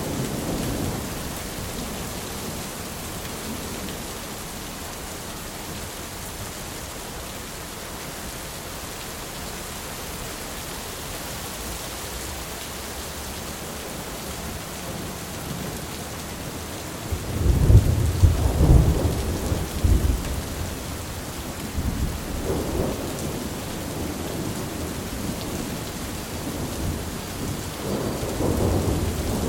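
Steady rain with rolling thunder. A rumble dies away at the start; a little past halfway a loud, crackling thunder rumble lasts a few seconds, a shorter one follows, and another begins near the end.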